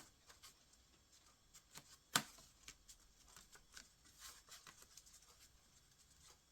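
Faint rustling and small taps of paper craft pieces being handled and pressed onto a paper plate, with one sharper tap about two seconds in.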